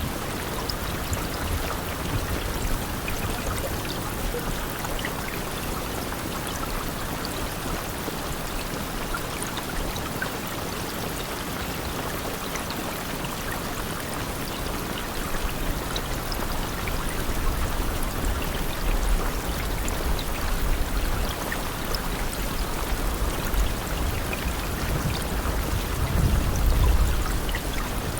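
Steady rain: an even hiss with scattered single drops ticking, and a low rumble that swells in the second half and is loudest near the end.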